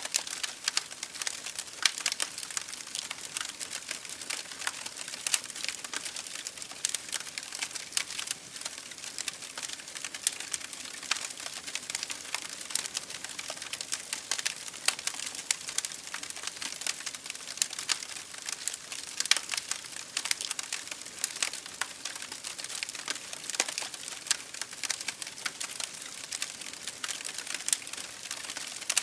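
Wood fire burning in an open fireplace, with dense, irregular crackles and pops over a steady hiss.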